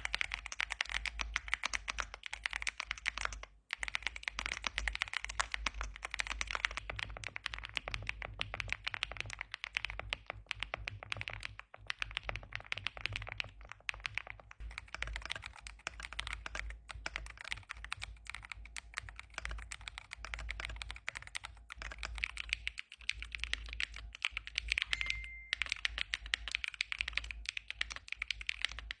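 Mechanical keyboards typed on fast and continuously, a dense clatter of key clicks, stopping briefly a few times as the typing moves from one keyboard to the next. A steady low hum sits underneath.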